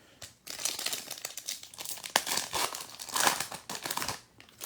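Foil trading-card pack wrapper crinkling and tearing as it is pulled open, with small sharp crackles, from about half a second in until it stops shortly after four seconds.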